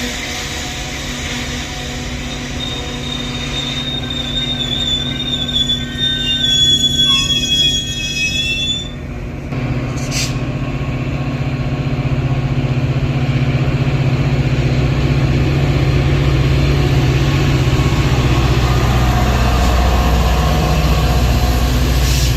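Metra commuter train on the BNSF line: high, wavering wheel squeal for several seconds, then a steady low diesel rumble that grows louder as the train comes on.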